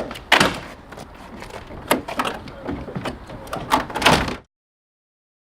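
A series of loud clunks and knocks, about five of them, over a rough background noise. The sound then cuts off suddenly to dead silence near the end.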